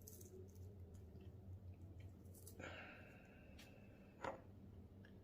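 Near silence: a faint low hum with a few small clicks and a brief soft scrape of handling. A sharper single click comes a little after four seconds.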